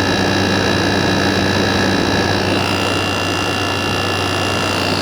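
2017 Frigidaire 8,000 BTU air conditioner running: a steady rush of fan air over a constant low hum, with a few faint steady whines on top.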